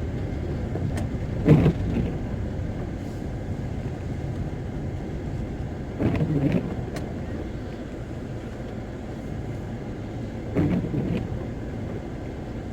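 Steady road and engine rumble of a camper van driving, heard from inside the cabin. Three short pitched sounds come at even intervals about four and a half seconds apart.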